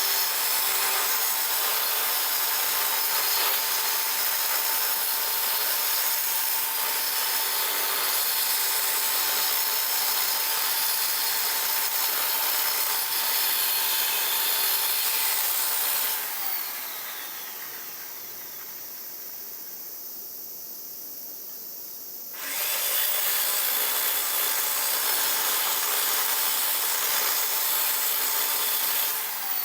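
Electric power tool running steadily under load, with a steady tone over its noise. It switches off about 16 seconds in, starts again about six seconds later, and stops near the end.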